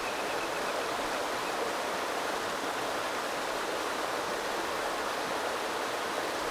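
A small river flowing: a steady, unbroken rush of running water.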